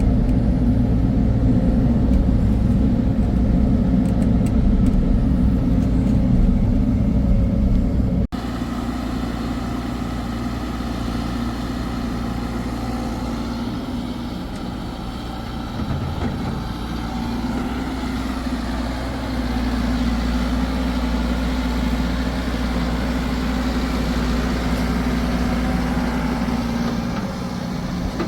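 Heavy diesel engine running steadily. The sound changes abruptly about eight seconds in, and after that a similar engine runs a little quieter.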